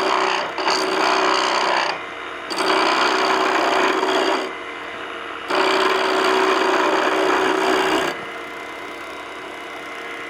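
Skew chisel cutting a spinning hickory spindle on a wood lathe. There are three rough, scraping cuts of about two seconds each, with the lathe running more quietly between them and after the last one ends, about eight seconds in.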